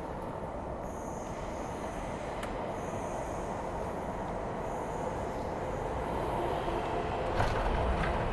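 MTR East Rail Line electric train pulling into the platform: a steady rumble growing slowly louder, with high-pitched wheel squeals coming and going.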